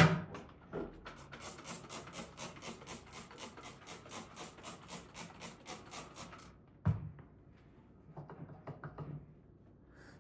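Quick back-and-forth rubbing strokes, about five a second for some five seconds, typical of scrubbing a surface by hand. A sharp knock opens it, and another single knock and a few light taps follow near the end.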